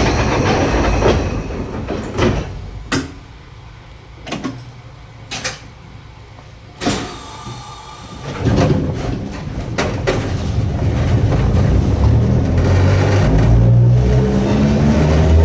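Narrow-gauge electric train with nose-suspended traction motors: several sharp knocks and clunks, then the train moves off about halfway through. Its motor growl and whine build and rise in pitch as it accelerates.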